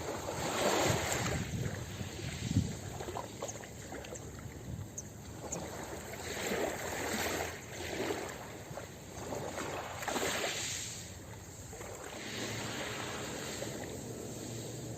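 Ocean waves washing onto a beach, surging in and falling back every few seconds over a steady hiss of surf.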